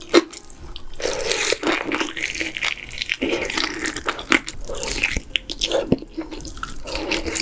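Close-miked wet eating sounds: a run of slurps, smacks and little clicks from someone eating.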